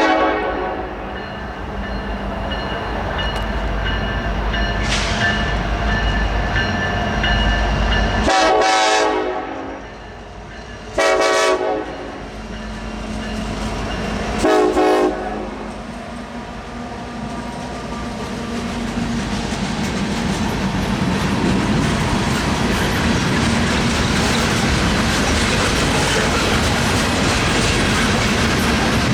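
Freight train locomotive horn sounding several chord blasts, the longest about a second and a half, in the first half. Then the locomotives and freight cars roll past, with the wheels' clickety-clack on the rail joints growing louder toward the end.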